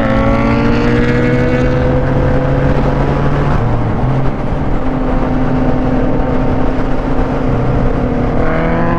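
Motorcycle engine under way, with steady wind noise: its pitch jumps at the start, sags slowly for a few seconds, holds steady, then climbs sharply as it revs up near the end.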